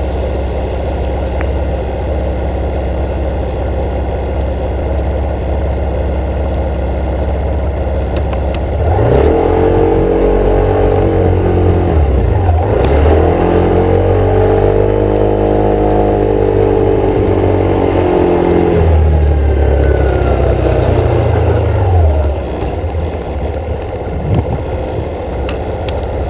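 A motor vehicle's engine running steadily, then pulling harder for about thirteen seconds, its pitch rising, dipping once as if at a gear change, and rising again before it drops back to a lower drone.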